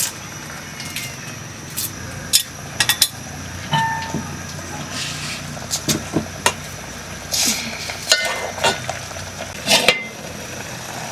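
Pots, pans and metal utensils clinking and knocking as they are handled, about a dozen sharp clinks at irregular intervals, one ringing briefly. A steady low hum sits underneath.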